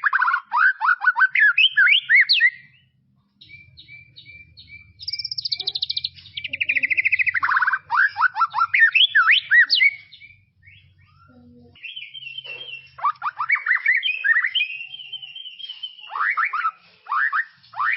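White-rumped shama singing: loud whistled phrases that open with a long downward slur and break into quick falling notes, between runs of short, evenly repeated notes.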